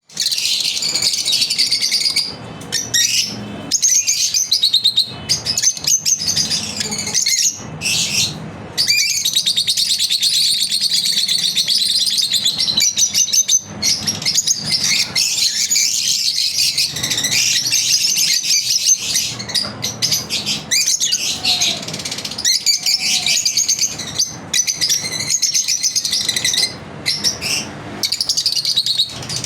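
Pet lovebirds chirping constantly in quick, high-pitched bursts, broken by short pauses.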